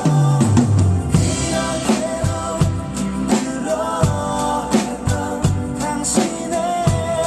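Contemporary Christian pop song: a steady drum-kit beat with bass and backing instruments under a singing voice carrying the melody.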